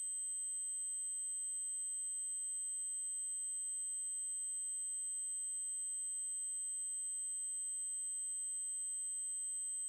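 Synthetic 8192 Hz triangle-wave tone: a single steady, high-pitched note held without change.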